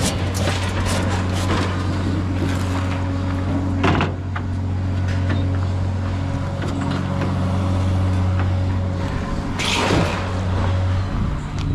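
An engine running steadily with a low drone, under scattered clicks and knocks and two louder bangs, about four seconds in and near the end.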